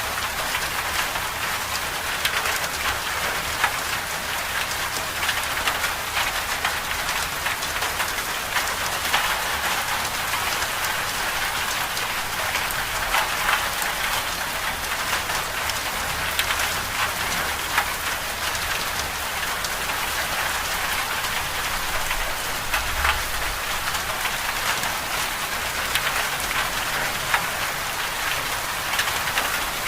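Winter storm ambience: a steady hiss of precipitation striking a surface, dense with small ticks, over a faint low rumble.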